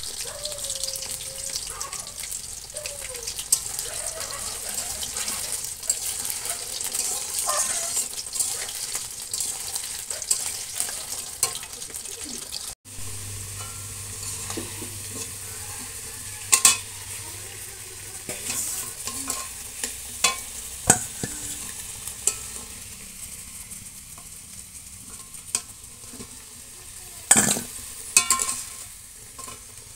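Potato chunks frying in hot oil in a metal kadai: a steady sizzle, with a metal spatula stirring and now and then clicking against the pan.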